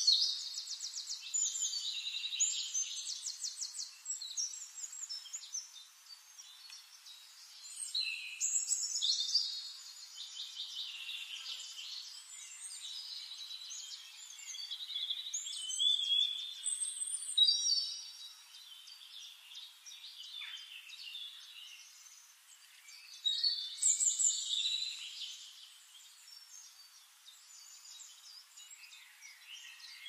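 Red-necked tanager singing: phrases of rapid, high trills and chirps every few seconds, with quieter twittering between them.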